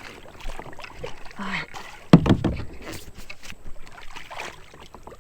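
Irregular knocks and clatter on a pedal-drive fishing kayak while a hooked smallmouth bass is fought to the boat, with one loud thump about two seconds in.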